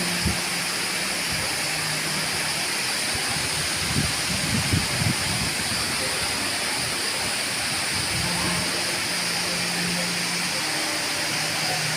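Waterfall rushing: a steady, even hiss of falling water. A few short low thumps come about four to five seconds in.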